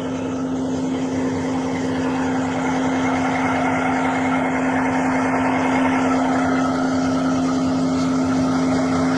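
A vehicle engine running steadily at idle, with a constant low hum over an even rushing noise.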